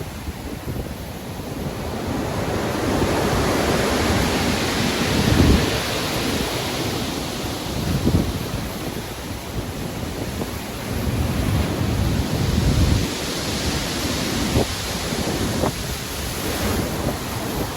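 Stormy sea: waves breaking and washing in repeated swells a few seconds apart, with wind over them.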